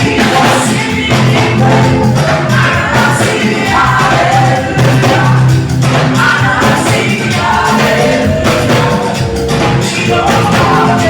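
Band and singers performing live, with a strong bass line and a steady beat under the voices.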